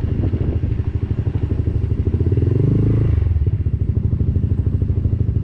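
A vehicle engine running while driving along, its note rising and then falling about halfway through.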